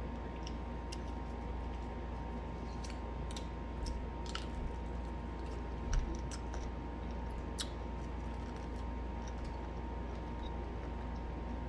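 A person eating fried chicken: chewing, with scattered small clicks and crunches, over a steady low hum.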